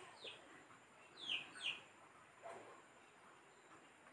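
Faint bird chirps in the background: short calls falling in pitch, one near the start and a quick pair about a second in.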